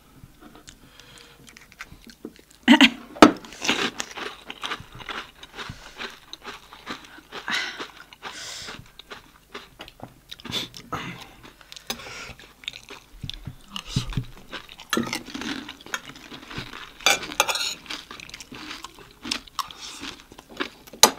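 Close-up crunching and chewing of crisp, hollow fried pani puri shells, a run of irregular crackles and wet chewing with louder crunches about three seconds in and again near seventeen seconds.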